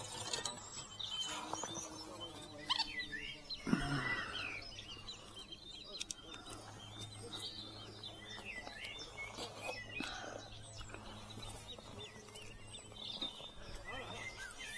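Small birds singing and twittering, many quick chirps throughout, with a short louder handling noise about four seconds in.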